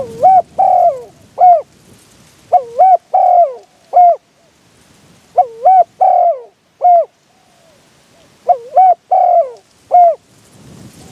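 Spotted dove cooing: four phrases, each of about four notes with the third the longest, repeated roughly every three seconds.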